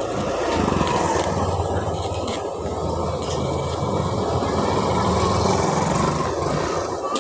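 Electric arc welding on steel tubing: a steady crackling arc over a low machine hum, stopping near the end.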